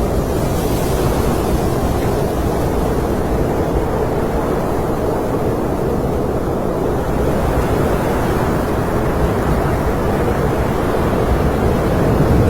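Snowstorm wind blowing steadily, a deep, even rushing noise.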